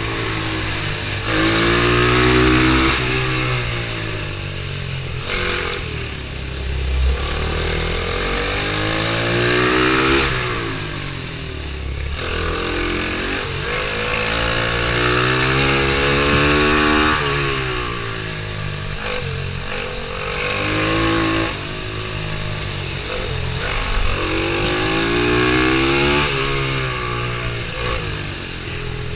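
Pitbike's small single-cylinder engine being ridden hard around a kart track: it revs up in rising sweeps along the straights and drops back for the corners, over and over through the lap.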